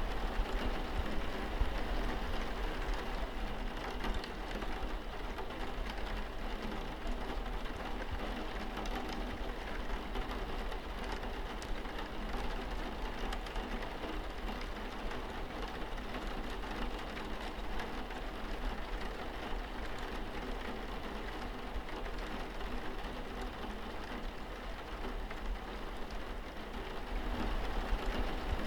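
Steady rain on a window pane, an even patter with scattered drop ticks, over a low, steady rumble.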